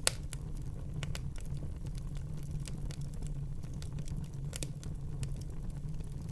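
Wood fire burning in a fireplace: a steady low rumble of the flames with scattered sharp crackles and pops, the loudest pop just after the start and another at about four and a half seconds.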